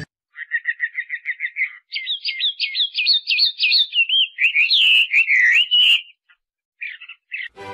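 A songbird singing. A quick run of repeated high chirps leads into a faster series of sweeping notes, then warbled whistled phrases that stop about six seconds in, with two short chirps near the end.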